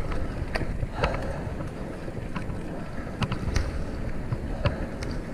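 Wind noise on a chest-mounted action camera over low road rumble while riding a fixed-gear bike, with scattered sharp clicks at irregular intervals.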